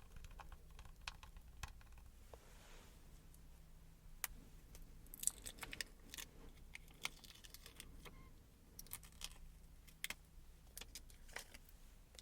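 Faint handling of small plastic gouache paint cups: scattered light clicks, taps and rustles, busiest about five seconds in and again near the end.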